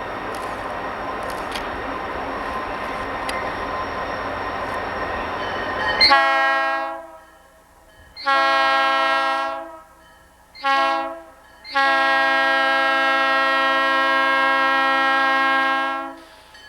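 Diesel locomotive running past for about six seconds, then its air horn sounds four blasts: a short one, a longer one, a short one and a final blast held about four seconds, a pattern typical of a grade-crossing signal.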